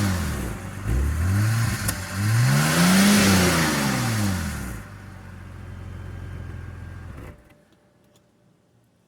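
2006 BMW 325i's inline-six being revved on a cold start. The revs fall, climb again to a peak about three seconds in and drop back. The engine then runs low and quieter, and cuts off abruptly about seven seconds in.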